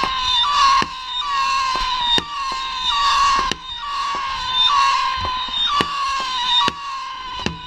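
Whistling fireworks: a string of shrill whistles, each dipping slightly in pitch before the next one starts, over sharp cracks about once or twice a second.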